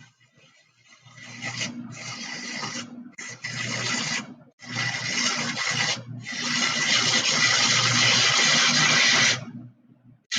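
Electric arc welding: the arc crackles and sizzles with a low hum under it while a bead is run across two tacked plates. It starts about a second in, breaks off briefly several times and stops about a second before the end.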